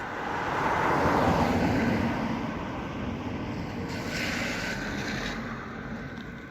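A train passing over the railway bridge. The rushing rail noise swells over about a second, holds for several seconds with a second surge partway through, then fades.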